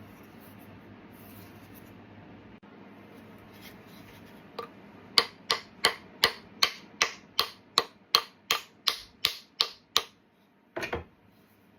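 A hammer striking a glued plywood wedge into the slot of an axe handle to lock the head on: about fourteen sharp, even blows at roughly three a second, then one duller knock near the end.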